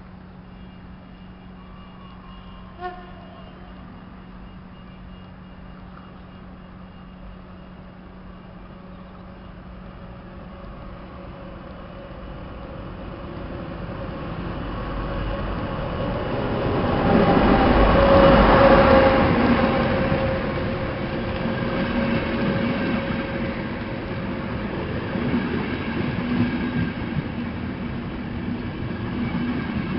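ADtranz diesel locomotive hauling a passenger train into the station. Its running grows louder from about ten seconds in and is loudest when the locomotive passes, then the coaches roll past steadily. A short sharp sound comes about three seconds in.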